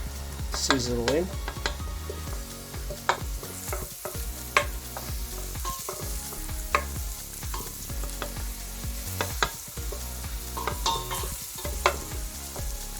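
Chopped red onions frying in oil in a pan, sizzling steadily as they are stirred, with the utensil knocking sharply against the pan every second or two. A steady low hum runs underneath.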